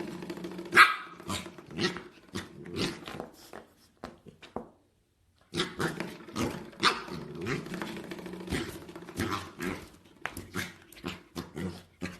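A dog growling steadily, broken by short sharp barks and yelps. It stops for about a second near the middle, then the growling and barking start again.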